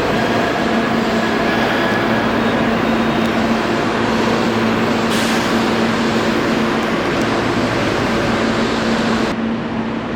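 Electric commuter train running alongside the station platform at close range, its wheels and running gear making a loud, steady noise. The hiss drops away suddenly near the end as the train clears.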